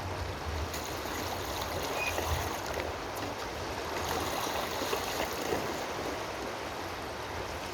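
Water flowing steadily in a stream, a constant rushing noise.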